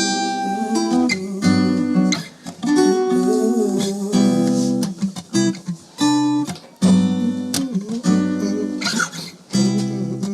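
Acoustic guitar strummed in chords, with the chord changing every second or so.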